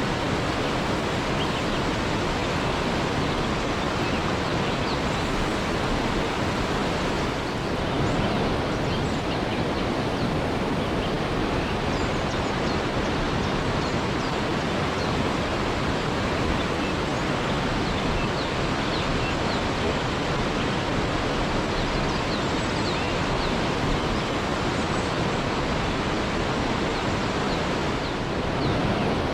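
Waterfall: a steady, dense rush of falling water, with faint short high chirps now and then.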